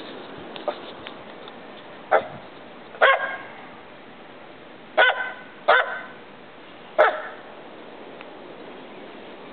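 A dog barking: about six single barks spaced a second or two apart, the first faint, over a steady background hiss.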